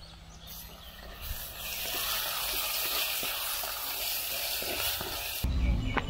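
Masala ingredients frying in hot oil in a pan, a steady sizzle that starts about half a second in and grows louder. A low rumble joins near the end.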